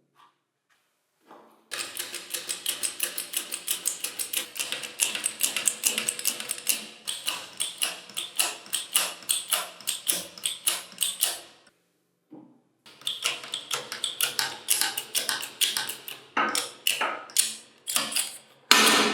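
Rapid, even clicking of a hand ratchet wrench being worked on bolts during reassembly, about four to five clicks a second. It pauses briefly about a second in and again past the middle.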